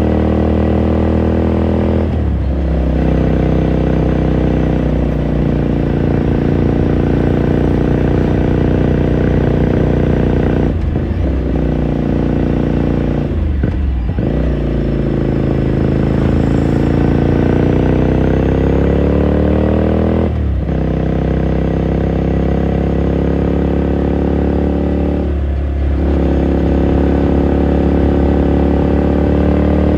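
2018 Ducati Scrambler Sixty2's 399 cc air-cooled L-twin engine and exhaust while riding, heard onboard: a steady engine note broken by about five brief dips at gear changes, with a long rise in pitch in the middle as the bike accelerates.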